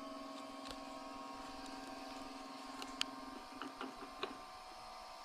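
Electric grinder's motor humming steadily, then cutting off about three and a half seconds in, just after a sharp click. A few light clicks and knocks follow, from the grinder being handled.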